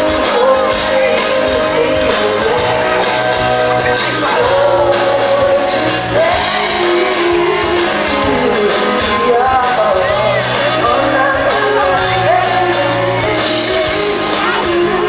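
Live music played loud in a large hall: a man singing drawn-out, wavering lines over band accompaniment, with some shouts.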